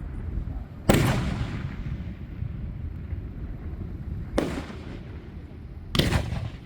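Fireworks bursting overhead: three loud booms, about a second in, at four and a half seconds and near the end, each trailing off.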